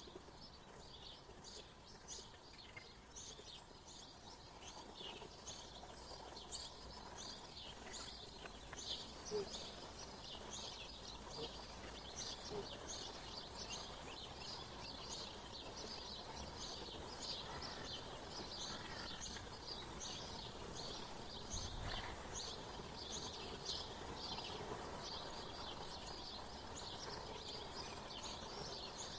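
Small birds chirping and twittering in many quick, high, short notes throughout, over a faint steady background hiss, with a soft low bump about two-thirds of the way through.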